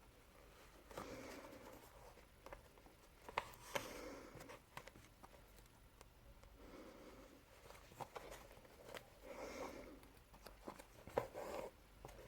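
Faint handling sounds from hand-sewing a neoprene wetsuit: a handful of short rustles and small clicks as the needle goes through the neoprene and the thread is pulled taut.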